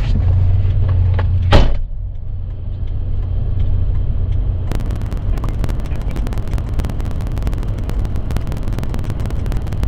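Vehicle engine idling with a steady low hum, broken about a second and a half in by one loud thump. From about five seconds in, dense crackling noise runs over the hum.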